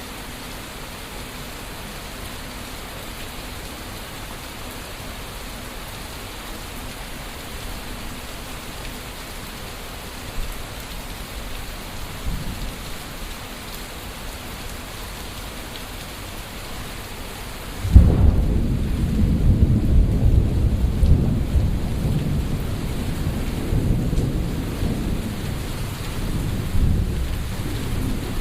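Steady rain falling, then about eighteen seconds in a sudden loud thunderclap that rolls on as a long, rising and falling rumble of thunder. Faint low rumbles of distant thunder come twice before it.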